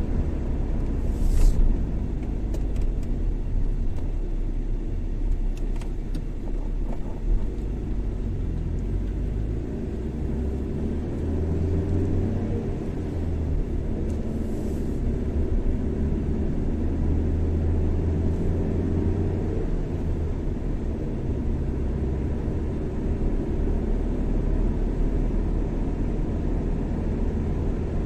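Car driving at steady road speed: a continuous low rumble of engine and tyre noise, with a brief hiss about a second and a half in and again about halfway through.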